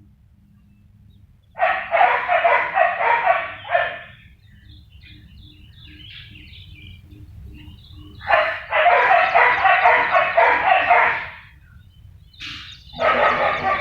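Several dogs barking together in three bouts: a couple of seconds in, again past the middle, and near the end. Faint bird chirps can be heard in the lull between the barking.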